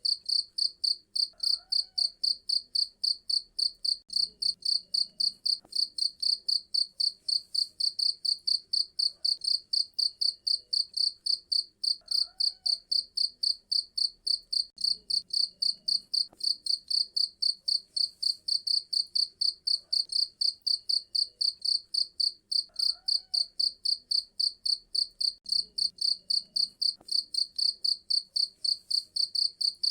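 Cricket chirping steadily: a high, shrill chirp repeated about four to five times a second without a break.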